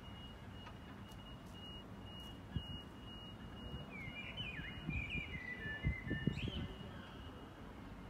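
Wild songbirds singing: a run of short gliding chirps and warbles about halfway through, over a thin steady high note. Low thumps and rumbles, like wind buffeting the microphone, run underneath.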